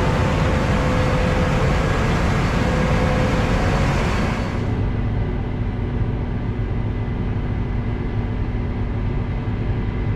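Tractor engine running while hauling a trailer load of grain, a steady loud drone. About four and a half seconds in, the high hiss drops away and a steady engine hum remains.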